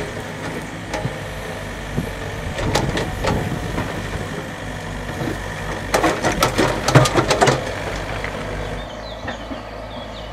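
A heavy engine running steadily at idle, with bursts of clanking and knocking about three seconds in and again from about six to seven and a half seconds in.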